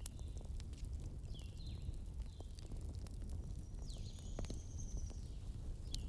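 Wood fire crackling, with scattered sharp pops over a steady low rumble. Short high chirps that slide downward recur every second or so, and one thin high tone is held for about a second near two-thirds of the way through.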